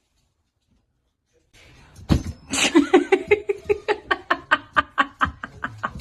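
A person laughing in a quick run of 'ha-ha' pulses, about four a second, starting about a second and a half in.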